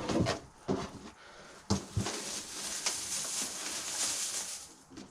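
Plastic nesting buckets knocking as they are handled, then the loose nesting bedding being tipped out of one bucket into another, a steady rustling pour lasting about three seconds.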